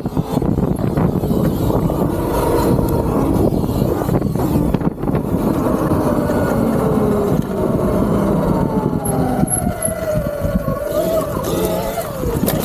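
Wind buffeting the microphone while riding an electric dirt bike. The motor's whine shows through and glides down in pitch about nine seconds in as the bike slows.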